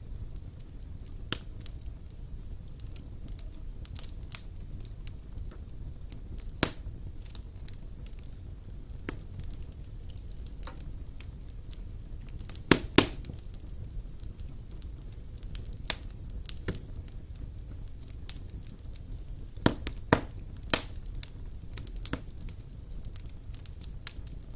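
Wood fire burning in a fireplace: a steady low rumble of flames with irregular sharp crackles and pops from the burning logs, the loudest a double pop about halfway through and a few more a little later.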